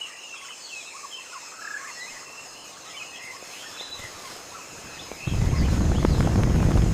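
Birds chirping over a steady high hiss of outdoor ambience. About five seconds in, a loud low rumbling noise cuts in suddenly.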